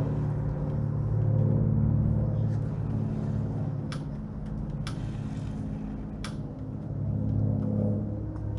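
Mini bike's small engine idling steadily at an even pitch, swelling slightly in loudness now and then. Three short sharp clicks sound over it about four, five and six seconds in.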